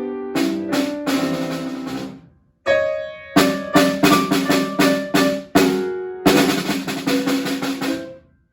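Snare drum playing sharp strokes and rolls over sustained piano chords, breaking off into a brief silence about two and a half seconds in and again near the end.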